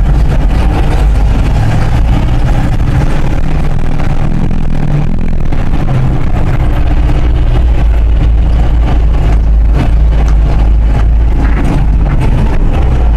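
1974 Chevy grain truck's engine running as the truck drives under its own power, a loud steady low rumble.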